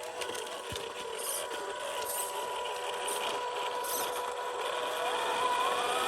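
Electric motor and gearbox of an MN128 1/12-scale RC Jeep crawler whining steadily as it drives over forest ground. Near the end the whine rises in pitch as the car speeds up.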